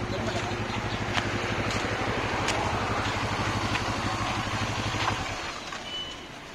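CFMOTO naked motorcycle's engine idling steadily, then shut off about five seconds in.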